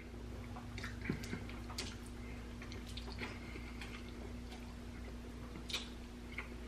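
Soft, close mouth sounds of a man eating oxtail off the bone: scattered wet clicks and smacks of biting and chewing over a steady low hum.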